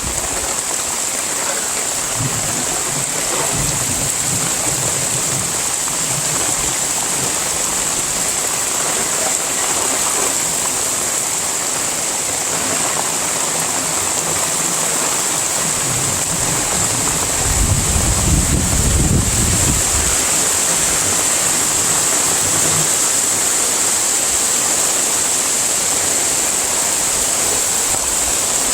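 Heavy rain falling, a steady dense hiss, with a low rumble swelling up for a couple of seconds about two-thirds of the way through.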